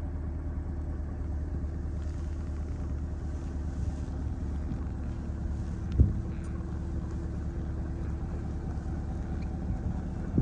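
Chevrolet Corvette Stingray's 6.2-litre V8 idling steadily, a low even hum. A single low thump about six seconds in.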